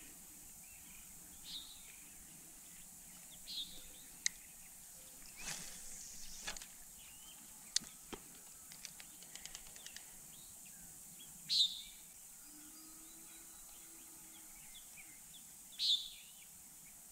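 Birds calling in short chirps every few seconds, the loudest about two-thirds in and near the end, over a steady faint hiss. A few sharp clicks and a run of faint ticks sound in the middle.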